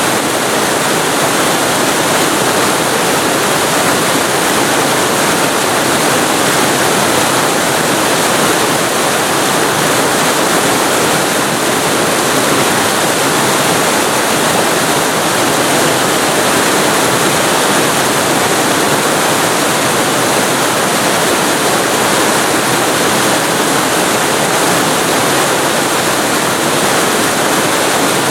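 Waterfall heard very close to the falling water: a loud, steady, dense rush of water.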